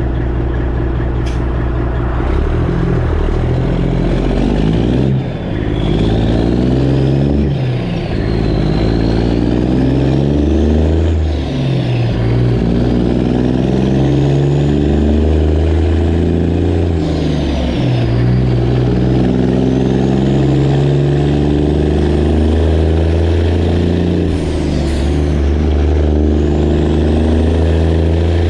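Straight-piped Detroit Diesel Series 60 in a Freightliner Classic XL truck, running loud under load. Its note dips and picks up again several times as gears are changed, with a faint wavering whine above it.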